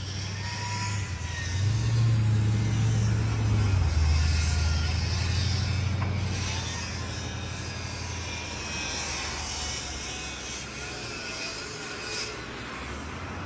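A motor vehicle's engine running with a steady low drone; its note steps up about two seconds in and settles lower about four seconds in.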